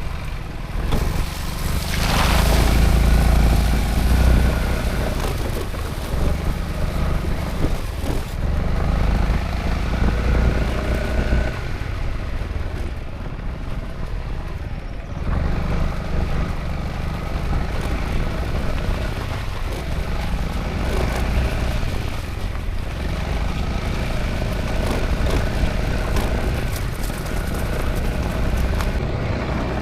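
Honda ADV350 scooter's single-cylinder engine running under way, with wind and road noise. It pulls harder about two seconds in, eases off for a few seconds around the middle, then runs steadily again.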